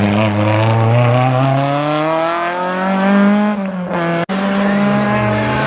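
Rally car engine revving hard under acceleration, its note climbing steadily for about three seconds before it eases off. The sound cuts out for an instant about four seconds in, then the engine note returns.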